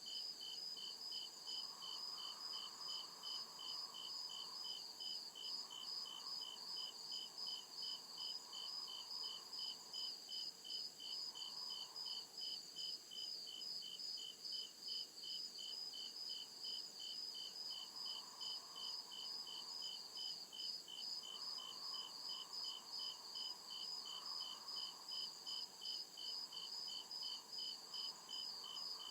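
Crickets chirping at night in an even, unbroken rhythm, two of them at different pitches, one higher than the other.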